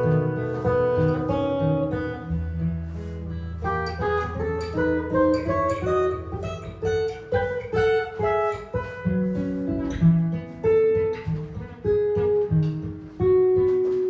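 Improvised jazz guitar: picked single-note melody lines over low bass notes and chords, the notes coming quickly and unevenly.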